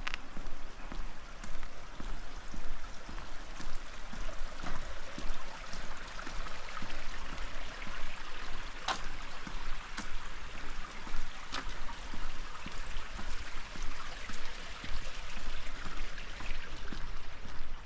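Rain and running water: a steady trickling, splashing hiss, with a few sharp taps, the clearest about 9 and 10 seconds in.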